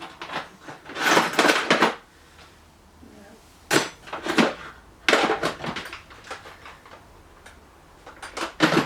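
Metal spanners clinking and clattering against each other as a box or drawer of tools is rummaged through, in several separate bouts.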